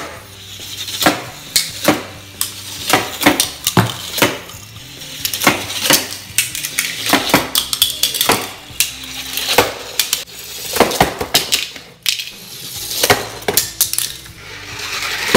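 A whole batch of Hot Wheels die-cast toy cars clattering down plastic track and tumbling off the end: a long, irregular run of sharp clicks, knocks and clinks.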